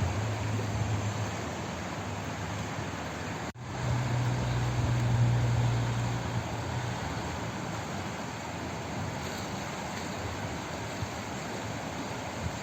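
Steady rushing of flowing water, an even hiss-like wash with a low rumble under it during the first second and again from about four to seven seconds in. The sound drops out for an instant about three and a half seconds in, then carries on.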